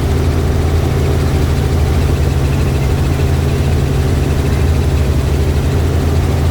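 Helicopter engine and rotor drone, loud and steady with a deep low hum.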